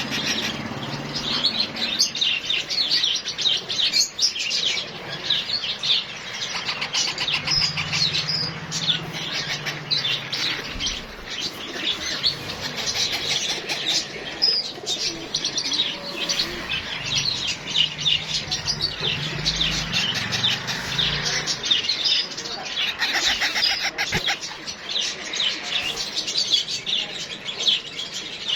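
Green parrot chicks chirping in rapid, high-pitched, overlapping calls that run on without a break.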